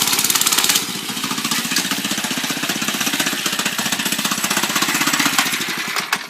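97cc single-cylinder engine of a Doodlebug mini bike running at a steady speed, its fast firing pulses plainly heard, then cutting off right at the end.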